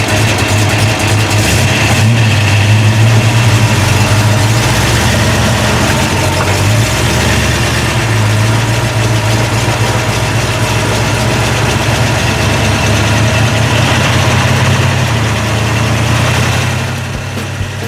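A car engine running steadily with a strong low hum, easing off near the end.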